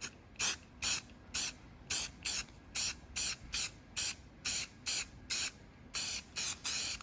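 Aerosol spray paint can hissing in short, even bursts, about two a second, as paint is laid on in quick strokes. The last burst near the end is held a little longer.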